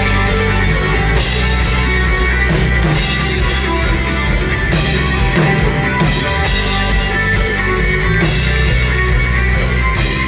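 A live rock band playing an instrumental passage of a worship song, with electric guitar and a drum kit keeping a steady beat.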